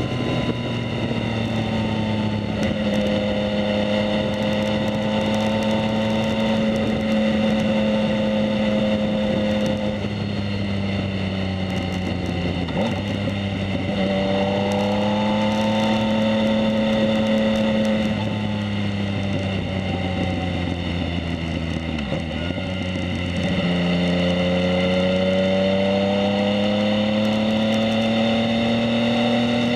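Yamaha MT-09's three-cylinder engine through a Two Brothers S1R full exhaust, running under way on a ride. Its pitch rises and falls gently with the throttle, dipping briefly a few times where the throttle closes or a gear changes.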